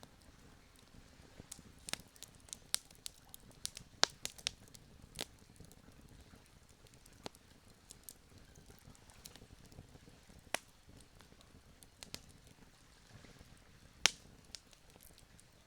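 Wood campfire crackling: irregular sharp pops and snaps over a soft low hiss, with the loudest pops about four seconds in and again near the end.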